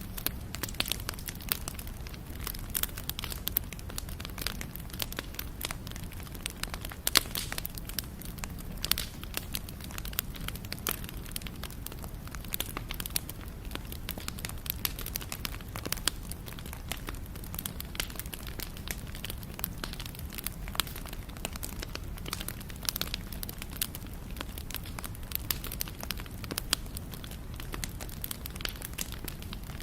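Wood campfire crackling steadily, with irregular sharp pops and snaps over a low rumble of flame; one pop about seven seconds in stands out as the loudest.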